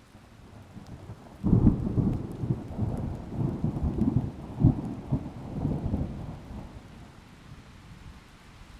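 A deep boom that starts suddenly about a second and a half in and rolls on as a crackling rumble for four or five seconds before dying away.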